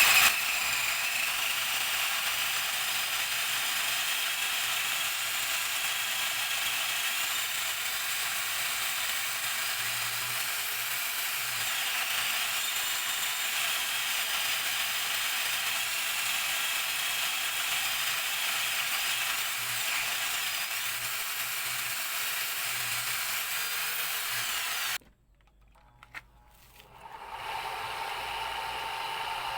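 Improvised lathe rig, an old drill press with an angle grinder mounted on it, running steadily with a hissing whir. The sound cuts off abruptly about 25 seconds in and builds back up a couple of seconds later.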